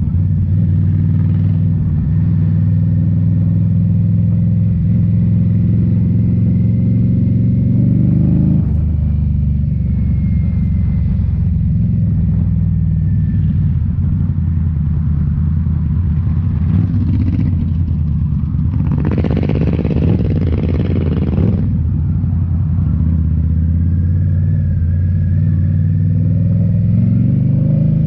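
2018 Indian Scout Bobber's V-twin engine through Rinehart slip-on mufflers, heard from the rider's seat while riding: it pulls up in revs, drops sharply at a gear change about eight seconds in, holds a steady cruise, and climbs again near the end. A short rush of noise passes about two-thirds of the way through.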